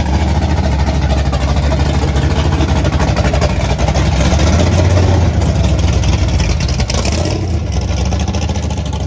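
A car engine running close by: a loud, steady, low rumble that swells slightly around the middle.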